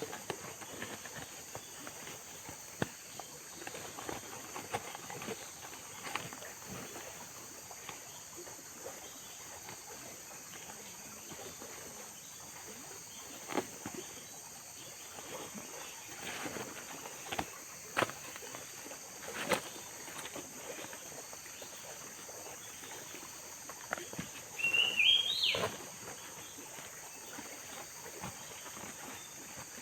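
Tropical forest ambience: a steady high insect drone, a few scattered knocks, and a short rising bird call near the end.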